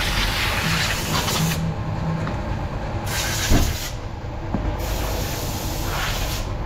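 Water spray hissing against a car as mud is rinsed off its body, the spray sounding brighter and duller by turns as the jet is moved. There is one short knock about halfway through.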